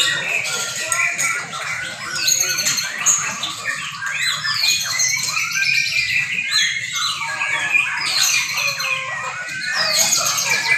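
Several young white-rumped shamas singing at once in contest, a dense tangle of overlapping whistles, sweeps and trills that never lets up.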